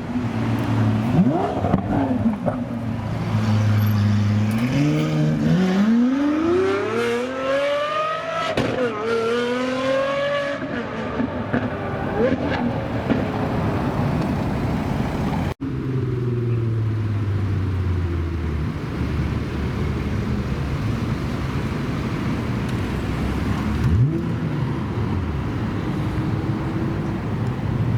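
Car engines accelerating: one engine revs up steeply about four seconds in, drops briefly as it shifts, then climbs again. Later a lower-pitched engine runs on and settles to a steady drone.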